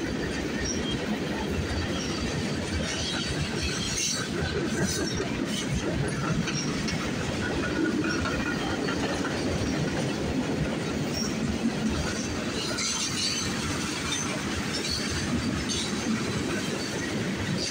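Freight train's covered hopper cars rolling past close by: a steady rumble and clatter of steel wheels on rail, with no let-up.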